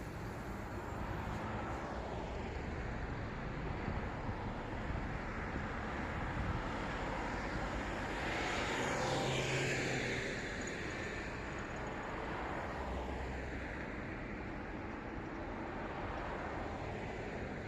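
Steady city traffic noise. About eight seconds in, one vehicle passes close by, its sound swelling and then falling away over a couple of seconds with a sweeping drop in pitch.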